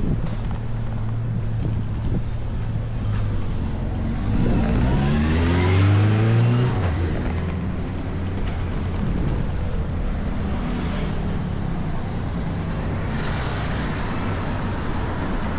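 Road traffic: a motor vehicle's engine rises in pitch as it accelerates past, loudest about six seconds in, over a steady rumble of traffic.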